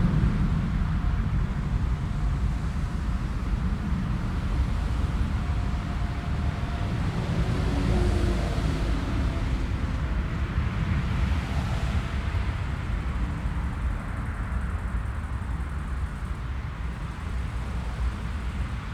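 Jet airliner engines rumbling, slowly fading, with wind buffeting the microphone.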